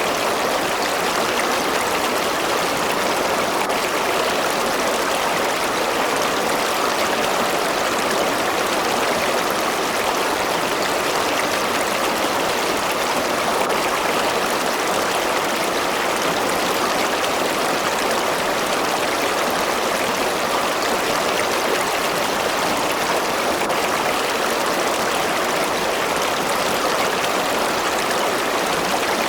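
River water flowing and babbling over rocks, a steady, unbroken rush.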